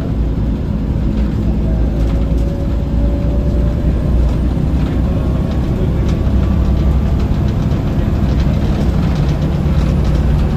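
Scania L94UB bus heard from on board while under way: its diesel engine runs with a steady low drone, and body panels and fittings rattle. Faint whines drift in pitch now and then.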